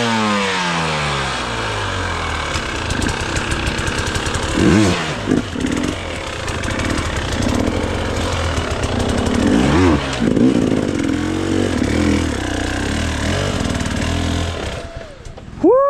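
Gas Gas hard enduro dirt bike engine working over rough rocky ground, its revs dropping at first, then blipped up sharply several times. A quick, high rev and fall comes right at the end.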